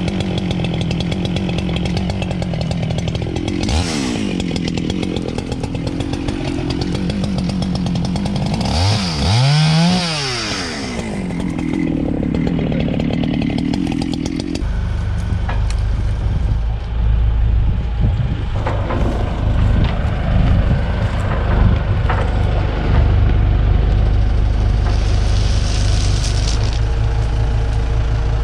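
Chainsaw running, revving up and dropping back, with one sharp rise and fall in pitch about ten seconds in. About halfway through, the saw's sound gives way to a steady low engine rumble.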